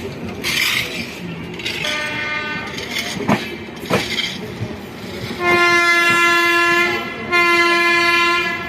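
Locomotive horn of an express train running through the station, sounding two long blasts about two seconds apart. A fainter short horn note and a couple of sharp clacks come before them.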